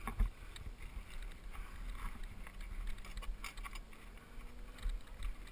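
Mountain bike riding down a dirt trail: a steady low rumble of tyres over the ground with scattered clicks and rattles from the bike.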